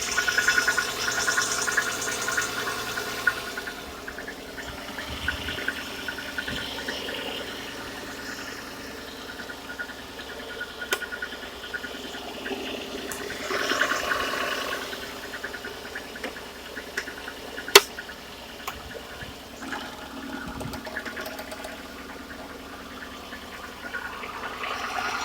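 VAZ 2110 1.5 16-valve engine running cold with a fast, even knocking tick: a cold-start knock that is barely audible once the engine is hot, which the owner suspects may come from pistons with slight play in their bores. One sharp click about two-thirds of the way through.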